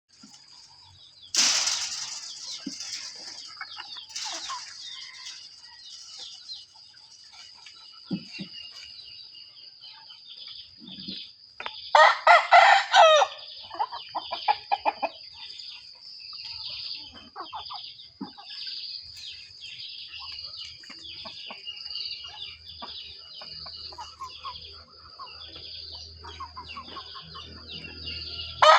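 Chickens clucking, with a rooster crowing loudly once about twelve seconds in and starting to crow again at the very end, over a steady high-pitched background drone.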